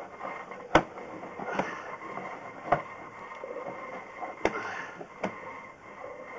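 Drain inspection camera push-rod and reel being worked, a steady rattle with five irregular sharp clicks and knocks, the first the loudest.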